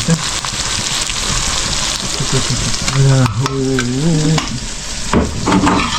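Bird meat frying in hot oil: a steady sizzle with crackling. A voice is heard briefly about halfway through.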